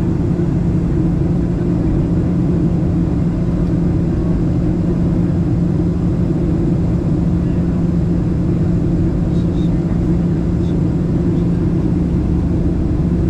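Steady cabin drone of a Boeing 737-700 in flight: engine and airflow noise with a constant low hum.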